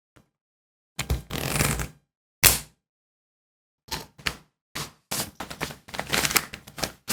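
A series of sharp clicks, knocks and rustles in separate bursts, with dead silence between them: a rustle about a second in, one loud knock about two and a half seconds in, then a quicker run of clicks and rustles in the last three seconds.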